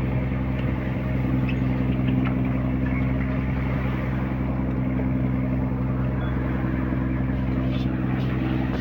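Fishing boat's engine running steadily at a constant speed, with a steady low hum.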